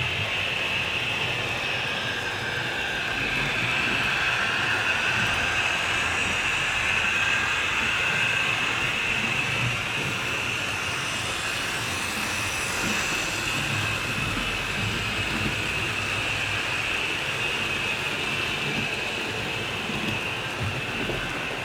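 HO scale model train running on the layout track: a steady high motor whine over a continuous rolling noise of wheels on rails.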